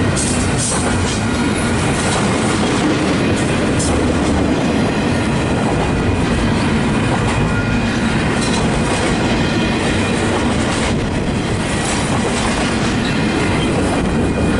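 Long CPKC freight train of mixed freight and intermodal cars rolling past, its steel wheels clacking over the rail joints in a steady, loud run.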